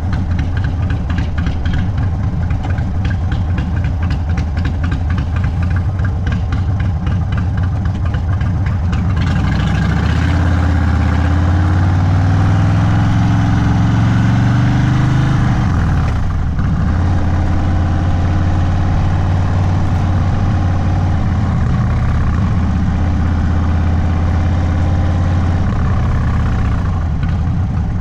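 Indian Sport Chief V-twin through an aftermarket Sawicki Speed exhaust, running at low revs with distinct firing pulses. About a third of the way in it accelerates with a rising pitch, dips briefly near the middle, then settles into a steady cruise.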